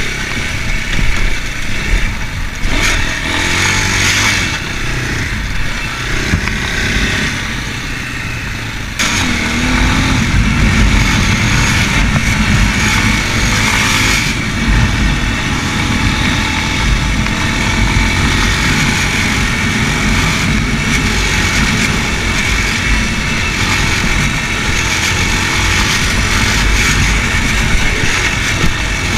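Racer Panther 300 enduro motorcycle engine running while riding, with wind and road noise. About nine seconds in the sound changes abruptly to a louder, steady engine note.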